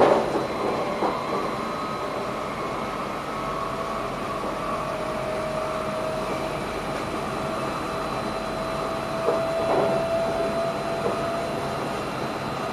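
Electric passenger train running, heard from inside the driver's cab: a steady rumble with a faint tone that rises slightly, and a few knocks from the wheels near the start and again about ten seconds in.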